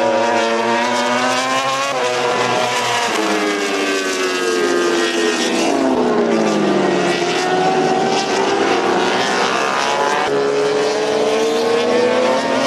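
Racing motorcycle engines at full throttle on a circuit, several bikes at once: revs climb and break at upshifts, and pitch falls as bikes sweep past.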